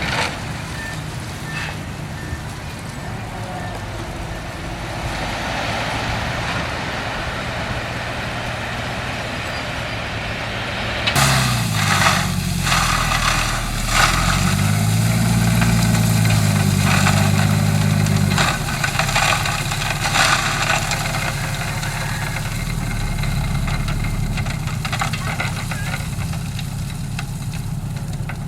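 Diesel engine of a heavy earthmoving machine running. About eleven seconds in, the sound switches abruptly to a brighter, nearer recording in which the engine revs up and down several times under load, with frequent metallic clanks and rattles.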